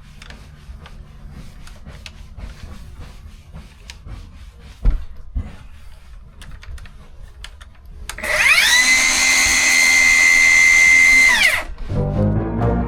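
Circular saw, its blade depth set shallow for cutting out a rotted camper floor, spins up with a steady high whine, runs for about three and a half seconds and winds down. Before it come faint knocks and one sharp thump; music starts near the end.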